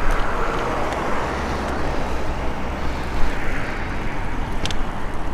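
Steady road traffic noise from cars, heard from a moving bicycle, with a low rumble throughout and a brief click near the end.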